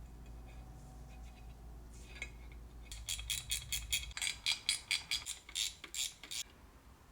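Light metallic clinking: a quick run of about a dozen sharp clicks starting about three seconds in, as of metal tools or parts being handled, over a faint steady low hum.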